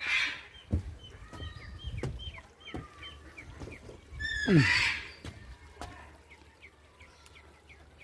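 Birds in a bird garden chirping, many short quick chirps repeating throughout, with one loud harsh call about halfway through whose pitch drops sharply.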